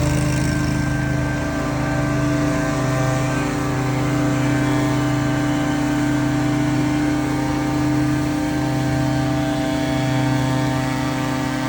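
Leaf blower engines running steadily at high throttle, a continuous engine drone with a slowly swelling and fading low hum.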